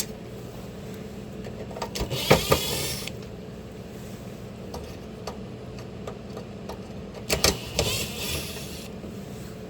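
Screws being backed out of a glove box with a screwdriver: scattered clicks and two short bursts of scraping and turning, one about two seconds in and one near the end, over a steady low hum.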